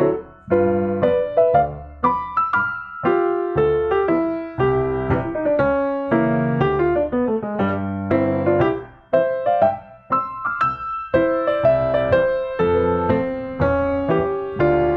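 Background piano music, a gentle melody of struck notes over a bass line.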